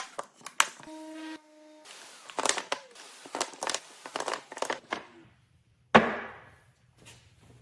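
A rapid series of sharp clicks and knocks, with a short pitched tone about a second in and one heavy thud about six seconds in that dies away slowly, followed by a low hum.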